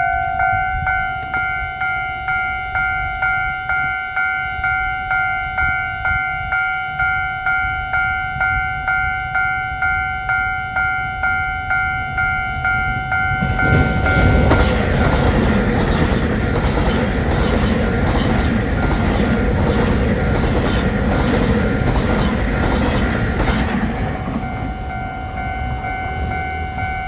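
Railway level-crossing warning bell ringing steadily at about two strikes a second. About 13 seconds in, a train passes for about ten seconds, its wheels clattering over the rails while the bell keeps ringing.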